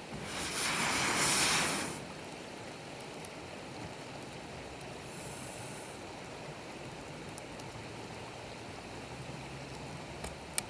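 Wood campfire burning: a steady rushing hiss with scattered faint crackles and one sharp pop near the end, and a louder rushing swell lasting about a second and a half near the start.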